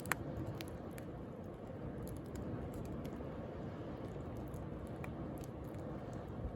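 Wood bonfire crackling with scattered small pops and one sharp louder pop just after the start, over a steady wash of sea waves.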